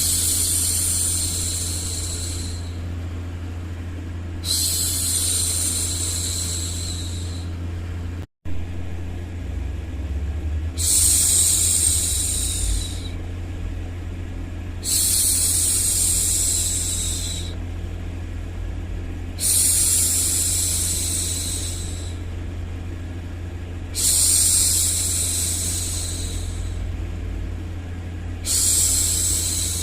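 A woman's voice shushing 'shhh' again and again. Each shush lasts two to three seconds and comes about every four and a half seconds, over a steady low white-noise rumble. The sound cuts out completely for an instant about eight seconds in.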